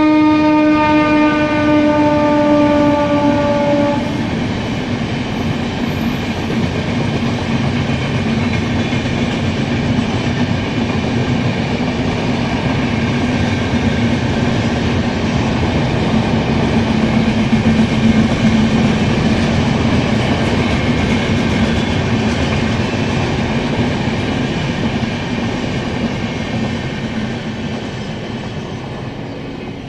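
WAP-7 electric locomotive's horn held in one long blast whose pitch dips slightly, cutting off about four seconds in. Then the express train runs past with a steady rumble and clatter of wheels on rails and a low hum, fading near the end.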